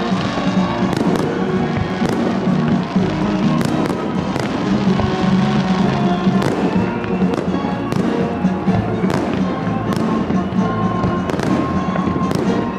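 Fireworks salute: shells bursting overhead in an irregular run of sharp bangs, often more than one a second, with music playing underneath.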